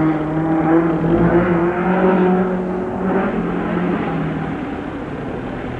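Hillclimb race car engine under hard acceleration going by. The pitch rises over the first couple of seconds and then holds. It is loudest about a second or two in and fades away near the end.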